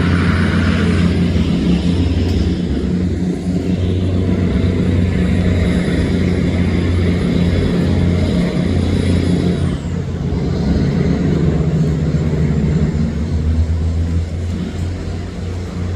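Tugboat's diesel engine running steadily under the load of towing heavily laden coal barges, a deep even throb with a wash of noise over it.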